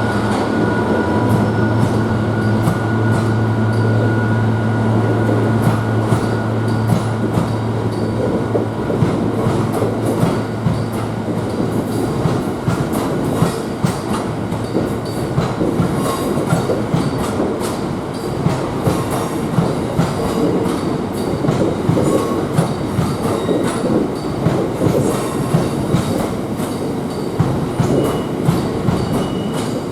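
Diesel-hauled train passing. For about the first twelve seconds a steady low engine drone dominates; after that comes continual clattering of wheels over rail joints.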